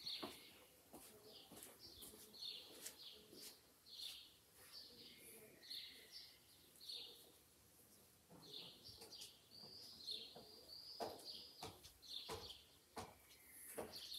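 Small birds chirping, faint, in short high calls about twice a second, with a few sharp clicks among them.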